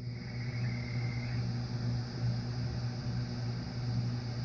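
Local electrical interference received by an Icom IC-7300 on the 80-metre band, played through the radio's speaker as a steady, coarse buzz with a low hum under a hiss. The operator takes it for radio-frequency noise from a source close by.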